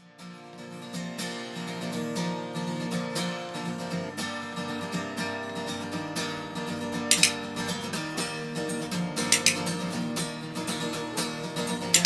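Background music: an acoustic guitar strummed in a steady rhythm, fading in at the start.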